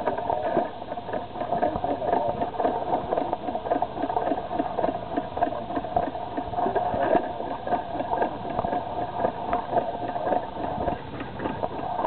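Detroit hit-and-miss stationary engine running, giving a steady run of sharp, repeating beats.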